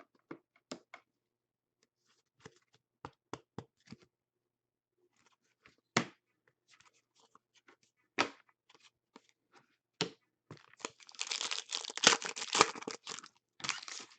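Trading cards being handled, with scattered light taps and clicks, then about ten seconds in a few seconds of dense crinkling and tearing as a card pack wrapper is torn open.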